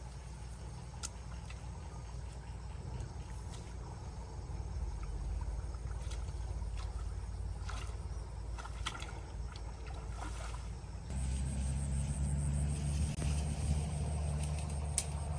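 A motor engine running steadily with a low hum, growing clearly louder about eleven seconds in, with scattered light ticks and clicks over it.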